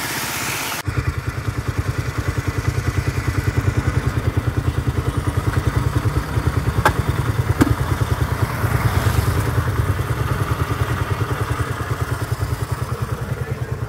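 Motorcycle engine idling at a standstill, an even low thumping of about six beats a second, with a couple of light clicks near the middle. Before that, about a second of riding and wind noise cuts off abruptly.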